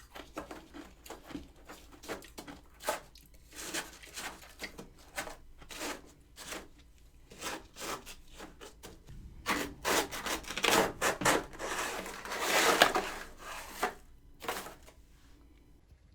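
Freezer frost crunching and scraping in many short, crackly strokes. The strokes come thicker and louder about two-thirds of the way through, then die away near the end.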